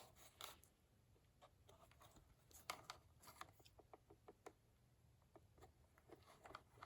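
Faint scattered clicks and light taps of a plastic cordless phone base and its packaging being handled, against near-silent room tone.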